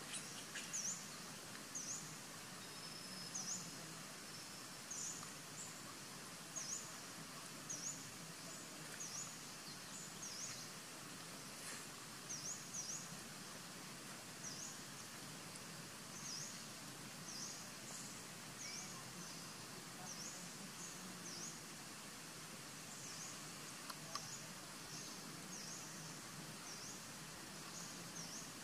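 A bird's short, high chirps repeating about once or twice a second over a steady outdoor hiss.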